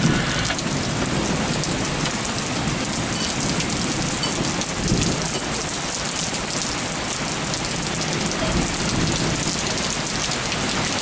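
Heavy thunderstorm rain pouring steadily onto trees and surfaces, a dense even hiss.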